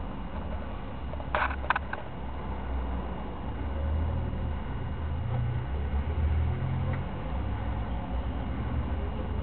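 Mercedes-Benz 240D's OM616 four-cylinder diesel idling on a cold start, a low, slightly uneven running. Three short sharp clicks a little over a second in.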